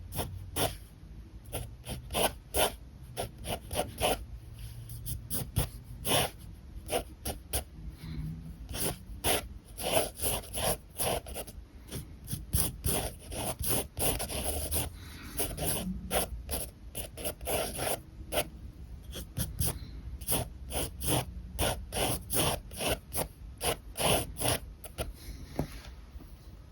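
Alcohol marker nibs rubbing on paper in quick, repeated scratchy strokes, several a second, coming in uneven runs.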